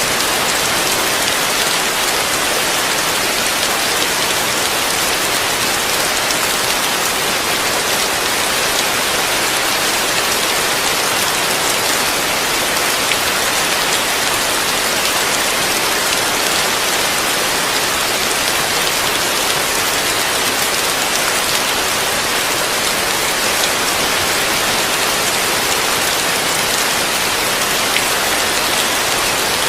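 Heavy rain falling on a roof, heard from beneath it: a steady, even hiss with now and then a sharper tick of a single drop.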